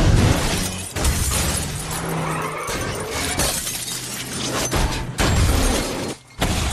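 Film soundtrack of a vehicle crash: glass shattering and several heavy impacts over a music score.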